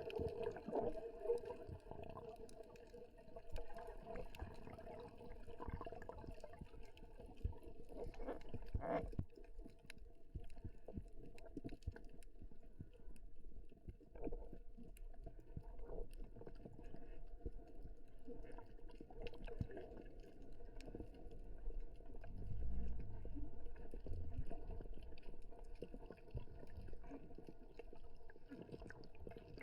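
Underwater ambience picked up through a camera's waterproof housing: muffled water movement with many scattered small clicks and crackles, and a low rumble swelling up about three-quarters of the way through.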